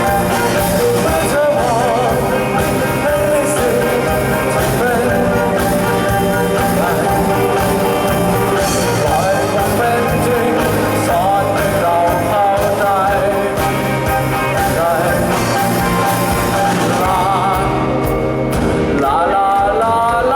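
A band playing a rock-style song, with a singing voice over steady bass and guitar.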